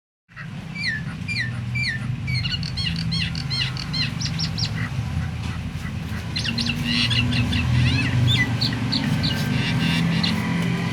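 Starling (jalak) song: quick repeated chirps and short whistled notes, some falling and some rising, getting busier after about six seconds, over a low steady drone.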